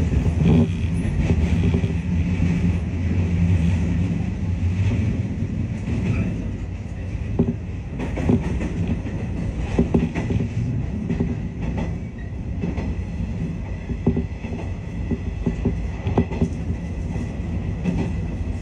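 A train heard from aboard while it runs: a continuous low rumble with a steady low drone over the first few seconds, then scattered clicks of the wheels over rail joints.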